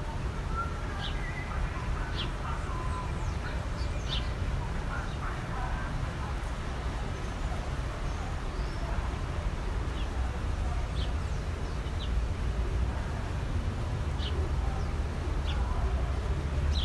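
Birds calling outdoors: short, high chirps every second or two, over a steady low rumble.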